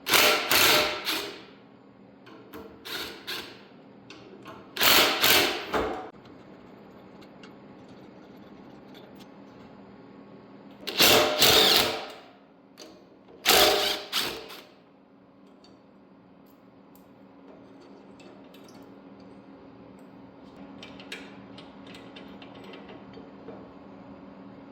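A handheld power tool run in short bursts of about a second, five times in the first fifteen seconds, taking fasteners off the three-wheeler during its teardown. A faint steady hum runs underneath, with a few light clicks near the end.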